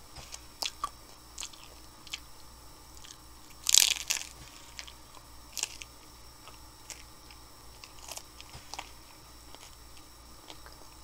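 A person biting and chewing crunchy hard taco shells filled with mac and cheese, close to the microphone: scattered crisp crunches and mouth clicks, with one loud crunching bite about four seconds in.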